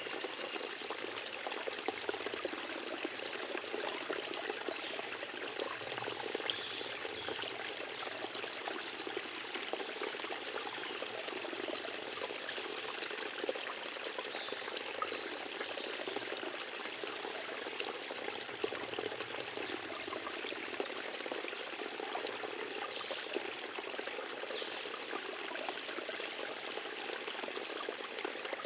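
Forest stream flowing and trickling in a steady, even rush of water.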